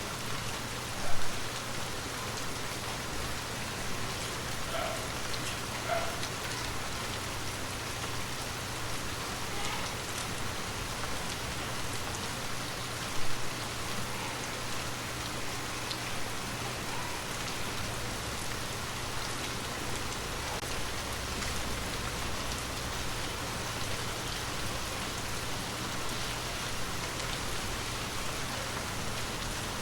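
Gentle rain falling steadily, with two brief louder hits about a second in and about thirteen seconds in.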